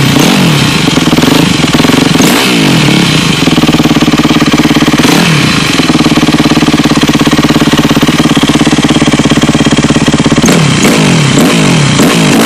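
2006 Yamaha YZ250F's 250 cc four-stroke single-cylinder engine idling, blipped several times in the first few seconds, once around the middle, and several more times near the end, the revs rising and dropping quickly back to idle each time. The engine is warming up after a cold start.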